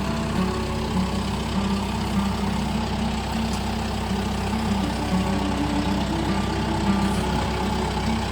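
Engine of a Wood-Mizer portable sawmill running steadily while it saws a log.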